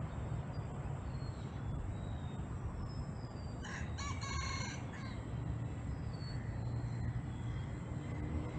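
A rooster crowing once, about four seconds in, over scattered thin bird chirps and a steady low rumble.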